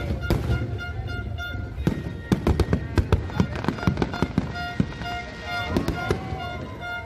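New Year fireworks going off in a rapid series of sharp bangs and crackles, thickest about two to three seconds in, with music playing underneath.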